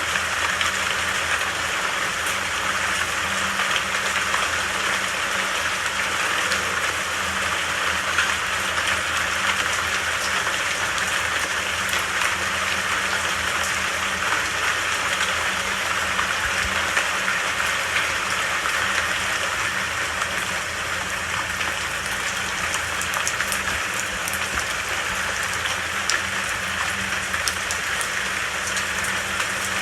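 Steady rain falling in a forest: a continuous even hiss with scattered faint drop ticks.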